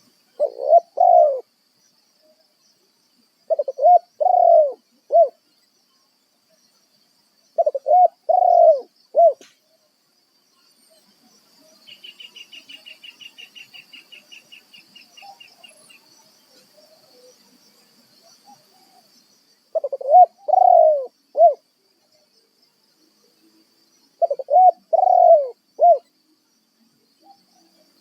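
Spotted dove cooing: five phrases of three or four notes, the first three about four seconds apart, then a long pause before the last two. About halfway, a faint rapid high trill of about seven notes a second lasts some four seconds, over a faint steady high hum.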